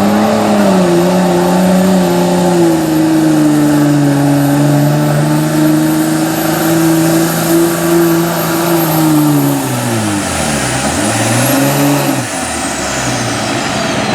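Diesel pickup truck engine under full throttle pulling a sled, running steady with a high turbo whine. About ten seconds in, the engine bogs down sharply, picks back up briefly, then drops off as the whine falls away.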